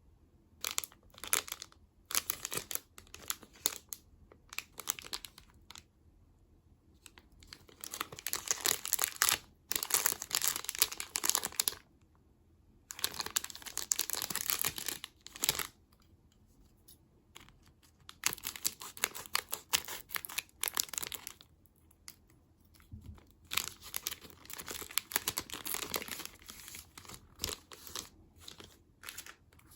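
Snack packaging being crinkled and torn open by hand, in several bouts of crackly rustling with short pauses between them.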